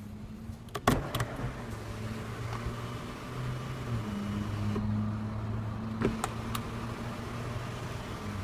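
Electric one-touch moonroof of a Mercedes-Benz ML350 running, its motor humming steadily as the roof moves, with pitch shifts a few times along the way. Sharp clicks about a second in and again around six seconds, from the switch or the roof mechanism.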